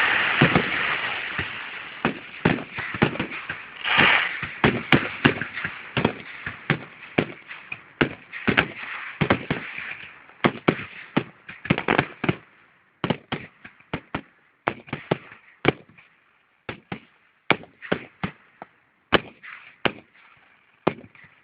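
Fireworks going off: a rapid, irregular run of sharp pops and bangs, dense and hissing in the first few seconds with a louder burst about four seconds in, then thinning out to scattered pops.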